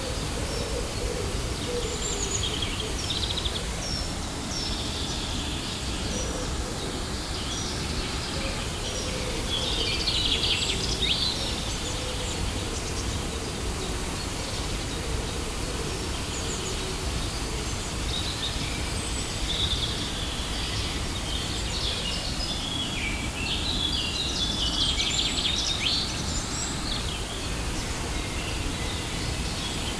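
Steady rushing of a waterfall, with birds chirping over it. The chirps come thickest about ten seconds in and again from about twenty-three to twenty-six seconds.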